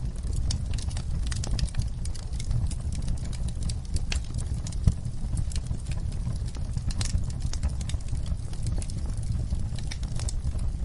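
Wood fire burning in a fireplace, crackling with frequent sharp pops over a low steady rumble; one louder pop comes about five seconds in.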